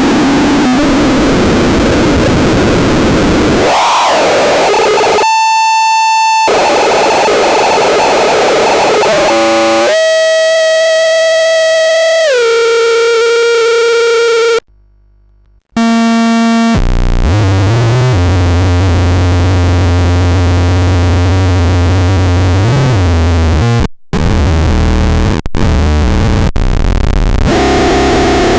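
OXYMORON Eurorack noise and odd-sound generator module fed a square-wave source, its controls being tweaked. It gives harsh, distorted buzzing that jumps abruptly between dense noise and pitched buzzing tones, stepping down in pitch once. A low steady drone comes in later. The sound cuts out suddenly for about a second in the middle and briefly again near the end.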